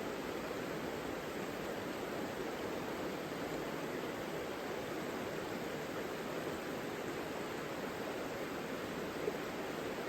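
Savica river water rushing steadily, an even, unbroken sound of flowing water.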